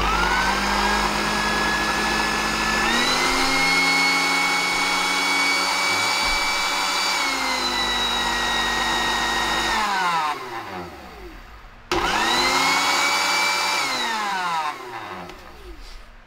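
Panasonic electric blender's 245 W, 100 V motor running with its whine: switched on at speed 1, stepped up to a faster, higher-pitched speed about 3 s in and back down about 7 s in, then switched off about 10 s in and spinning down with a falling pitch. It is run again briefly about 12 s in and spins down once more near the end.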